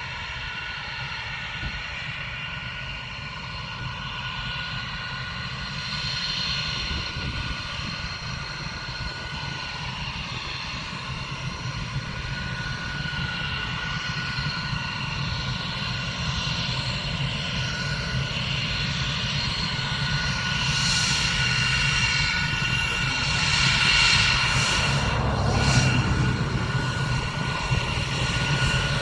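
Jet aircraft engines running with a steady rumble and a high whine, growing louder over the last third as the aircraft comes closer, its whine sweeping in pitch as it passes.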